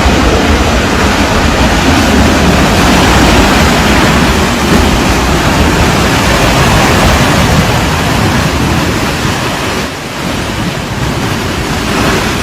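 Loud, steady rush of a river in flood, churning floodwater with no distinct events. It dips briefly about ten seconds in, then carries on.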